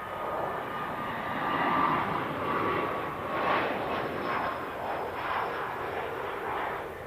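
Airliner's engines as it passes: a broad roar with a thin whine that sinks slightly in pitch, then fading near the end.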